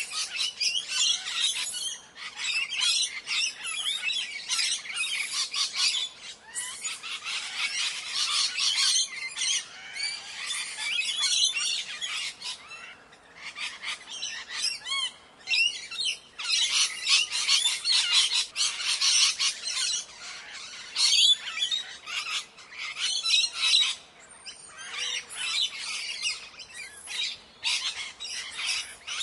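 A flock of parrots calling: many shrill, overlapping squawks and screeches in a continuous din, dropping off briefly a couple of times.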